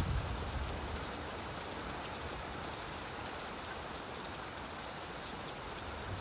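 Steady rainfall, an even hiss of many drops with no change in level.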